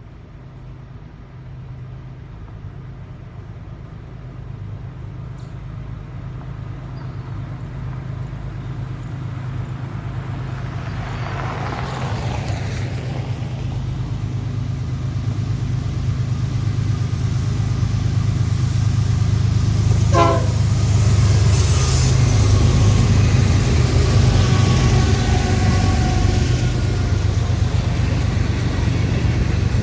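Train's diesel locomotives approaching, a low engine rumble growing steadily louder over about eighteen seconds and then holding loud.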